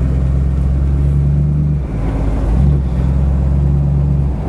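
Car engine running steadily under way, with road noise, heard from inside the cabin. The engine note drops off briefly about two seconds in, then picks up again.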